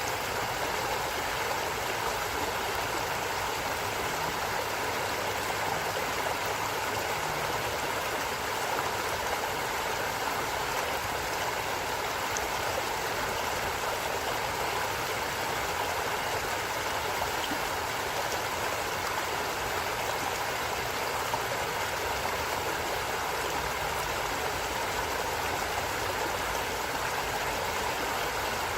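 A stream flowing with a steady, even rushing of water.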